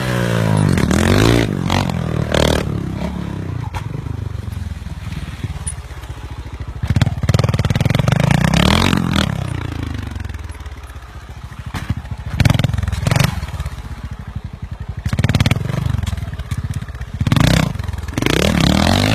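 Motorcycle engines revving hard again and again, the pitch climbing and dropping as the bikes are ridden through maneuvers, with several louder bursts of throttle.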